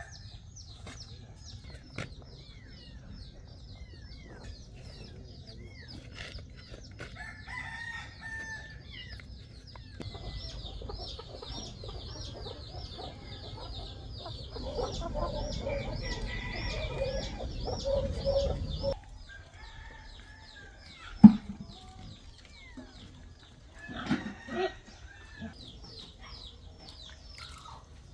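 Chickens clucking with a rooster crowing, over a steady run of high chirps. A single sharp knock comes about two-thirds of the way through.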